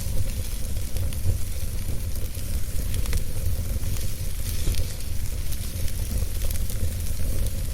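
Wood fire crackling, with scattered small pops over a steady hiss and a low rumble.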